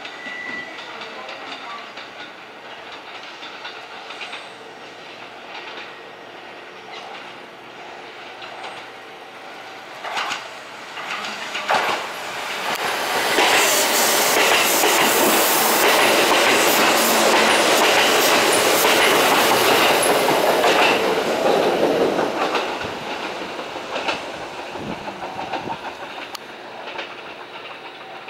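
An electric train passing through a station without stopping. Sharp wheel clicks come about ten seconds in, then loud wheel-on-rail clatter and rushing for about eight seconds, fading as it goes by.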